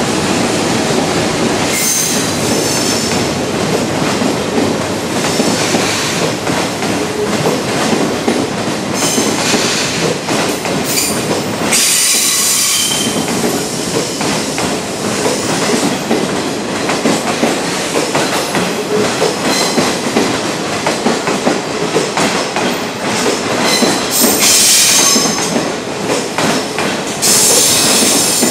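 A train of blue locomotive-hauled passenger coaches rolling slowly past, wheels clattering over rail joints and points. High-pitched wheel squeals come and go several times over the steady rumble.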